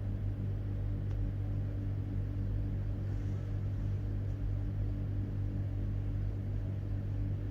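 Steady low hum that stays the same throughout, with a few fainter higher tones above it.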